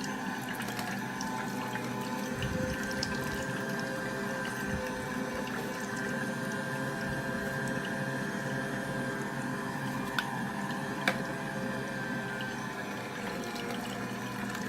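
AMZCHEF cold-press slow juicer running steadily, its motor humming with a constant pitch as it presses orange juice. Two sharp clicks about ten and eleven seconds in.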